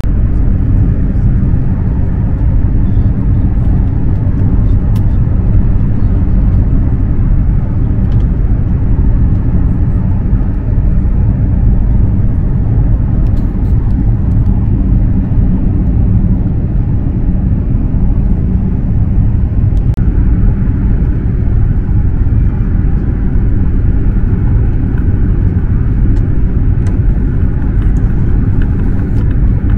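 Steady loud rumble and rushing noise of a Eurostar high-speed train running at speed, heard from inside the passenger car.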